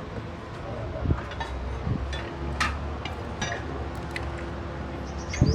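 Scattered knocks and light clinks of work on a car's suspension, over a low steady hum. Near the end a bird starts a rapid run of repeated high chirps.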